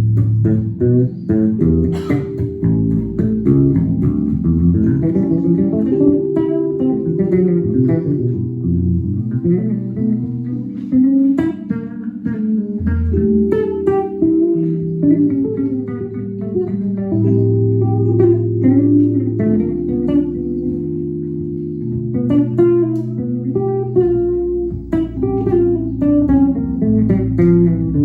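Instrumental guitar music: plucked guitar notes played over held low bass notes, with no singing.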